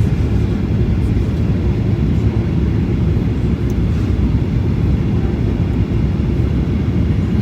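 Airliner cabin noise during the descent to landing: the steady low roar of the jet engines and airflow, heard from inside the cabin.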